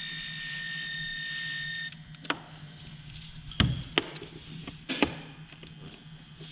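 A steady high-pitched whine or beep-like tone that cuts off abruptly about two seconds in, over a low hum, followed by a few sharp knocks and clinks of tools and parts being handled.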